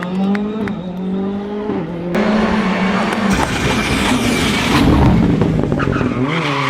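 Rally car engines revving hard, the pitch rising and falling with gear changes. About two seconds in the sound changes abruptly to a loud, close pass with heavy tyre and road noise.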